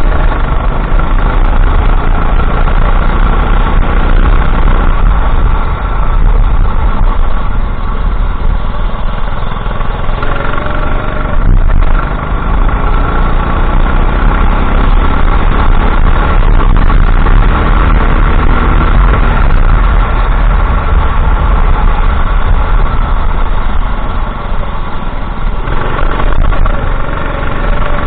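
Racing kart engine running loud and continuous under a heavy low rumble. Its pitch climbs as it accelerates, about ten seconds in and again near the end.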